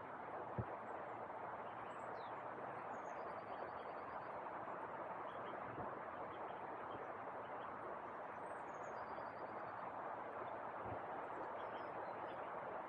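Small birds calling over a steady background rush: twice a short trill of quick repeated high notes, a few seconds apart, with a few thin high chirps between. A single soft knock sounds about half a second in.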